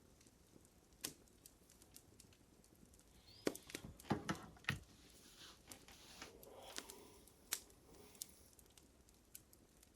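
Fire crackling, with scattered faint pops and a flurry of louder pops and crackles about three and a half to five seconds in.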